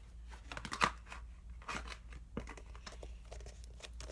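Irregular crinkling and clicking of slime containers and slime being handled, with one sharper click a little under a second in.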